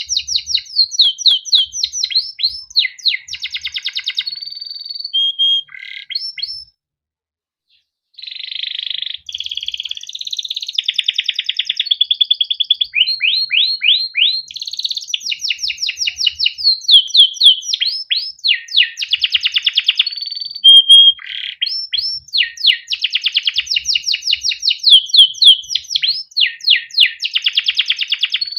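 Male domestic canary singing a long song of fast rolling trills and chirped phrases, with one break of about a second and a half roughly a quarter of the way in.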